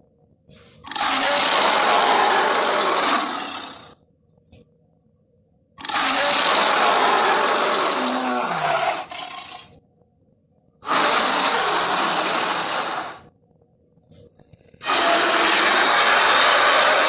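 Four long, raspy roars, each lasting about three seconds with short silences between them, presented as lion roar sound effects for Simba.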